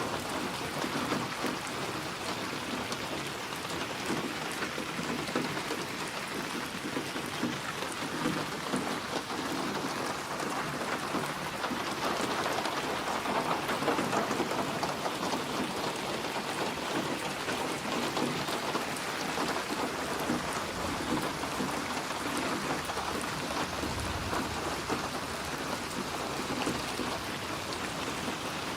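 Steady heavy rain falling and pattering on surfaces, with a low rumble of thunder about three-quarters of the way through.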